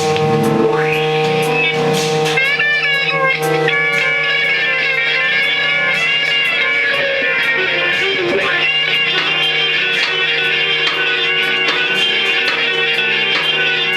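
Live band music led by an electric guitar, over steady droning held notes with wavering higher tones.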